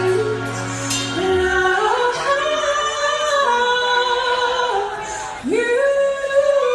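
Female singer holding long wordless notes at the close of a song. The low band accompaniment drops out about two seconds in, leaving the voice almost alone, and near the end it swoops up into a long held note.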